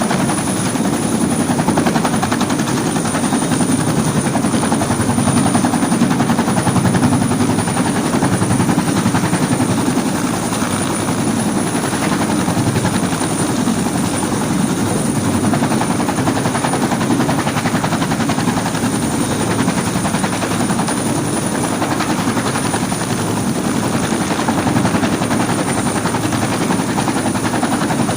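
Helicopter running steadily, a dense rotor sound with a thin high whine held steady above it.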